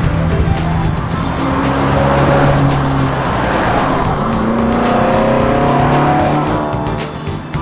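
A car engine running and driving past, its note rising in the second half, with music playing over it.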